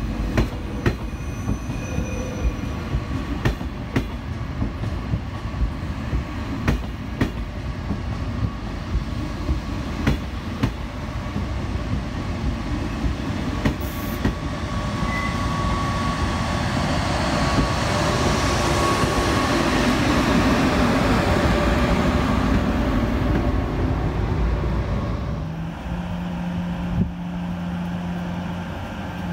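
A train rolling through the station, its wheels clicking over rail joints about once or twice a second. About halfway in, a louder rumble builds and fades, with a faint steady squeal of wheels. Near the end a steady low hum sets in.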